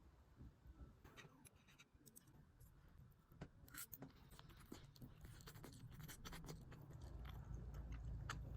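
Faint scattered clicks and light scraping sounds, like small objects being handled. A low hum grows over the last couple of seconds.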